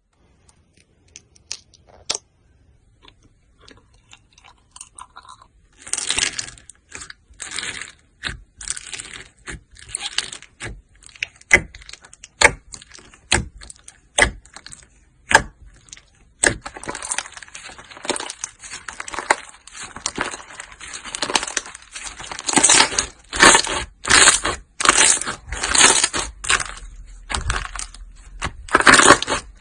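Slime being squeezed and mixed by hand close to the microphone: irregular wet, crackly squishes with a few sharp clicks, sparse and faint at first and growing denser and louder over the last dozen seconds.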